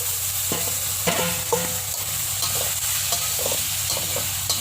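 Spices frying in hot oil in a pan with a steady sizzle, while a spatula stirs and scrapes against the pan in short, irregular strokes.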